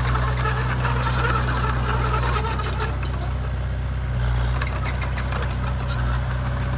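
Heavy diesel engine running steadily, a constant low drone with no change in speed.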